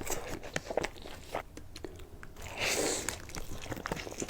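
Close-miked biting and chewing of an extra cheesy birria burrito, with scattered small clicks and one louder crunching bite about two and a half seconds in.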